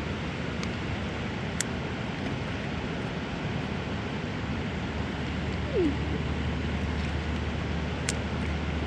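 Steady rushing of a river flowing over rocks, with a few short, sharp clicks of thrown stones knocking on rock.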